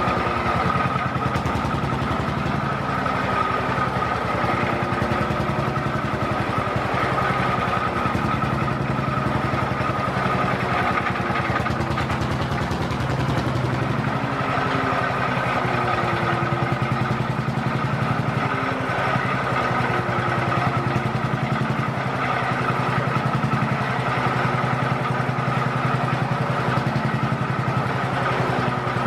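Vintage tractor engine running steadily at an even speed, with a fast, regular firing beat.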